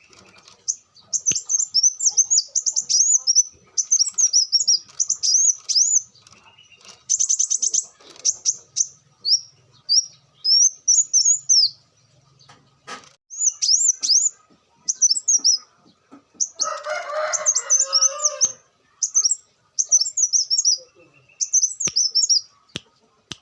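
Kolibri wulung sunbird singing: rapid runs of high, sharp twittering chirps with short pauses, and a fast buzzy trill about seven seconds in. A lower, harsher sound lasts about two seconds near the middle.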